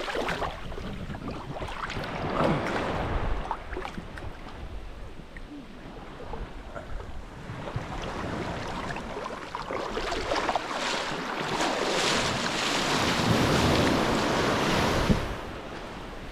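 Surf breaking and washing up a steep beach: a rushing hiss that swells from about ten seconds in and cuts off sharply about fifteen seconds in. Wind buffets the microphone.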